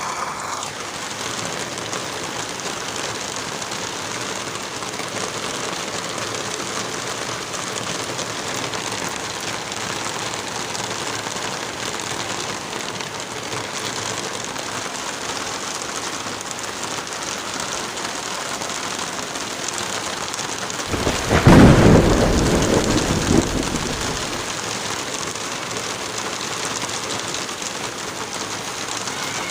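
Steady rain, with one loud clap of thunder about three-quarters of the way through that rumbles for a few seconds and fades.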